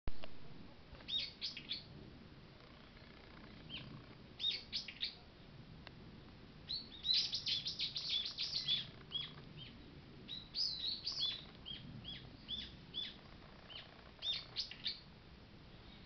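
Small songbirds chirping in the woods: short, high calls in quick clusters of three or four, with a denser run of chatter about halfway through. A sharp click at the very start.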